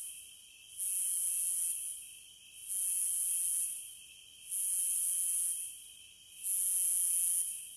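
Periodical cicadas calling: a high buzz swells up four times, each lasting about a second, over a steady, lower-pitched chorus drone.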